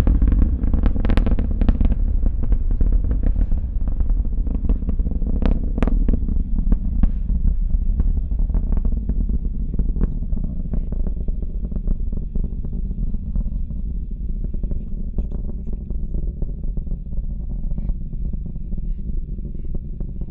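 Falcon 9 rocket's nine Merlin engines rumbling with sharp crackles as the rocket climbs away. The crackling thins out after several seconds and the rumble slowly fades.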